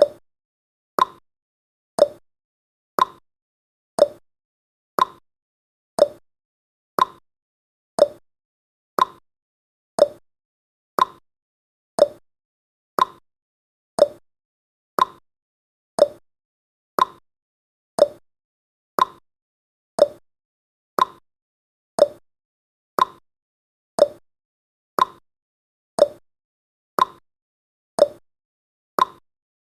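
Countdown timer tick sound effect: one short tick every second, evenly spaced.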